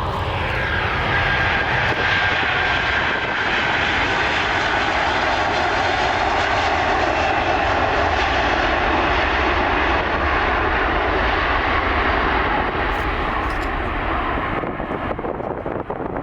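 Airliner's engines passing close, a loud steady rush with a high whine that slides slightly lower over the first few seconds, fading over the last two seconds.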